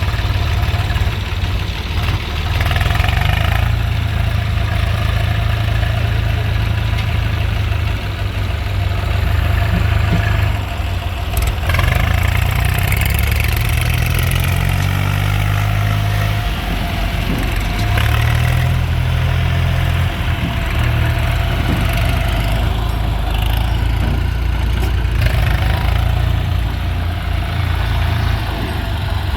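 Diesel engines of a tractor and a JCB backhoe loader running during sand loading, revving up twice past the middle. A single sharp knock a little before halfway.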